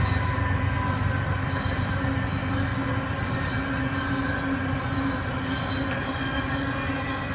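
CP freight train rolling past: a steady low rumble of locomotives and cars, with several high whining tones that slowly fall in pitch.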